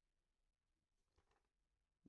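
Near silence: the sound track is almost completely silent.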